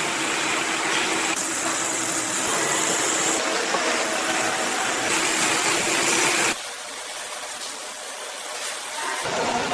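Steady rushing noise of a gas-fired glass furnace burning, shifting abruptly in level several times and quieter for a few seconds near the end.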